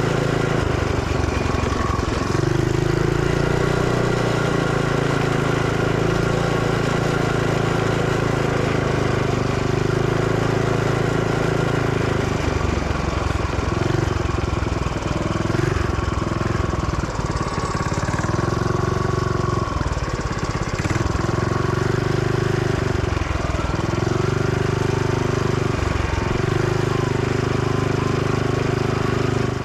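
Small Briggs & Stratton engine on a mini bike running under way, steady for a while, then throttle easing off and opening again about every two seconds.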